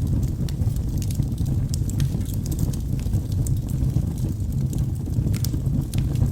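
Wood fire burning in a fireplace: a steady low roar of the flames with sharp, irregular crackles and pops from the logs.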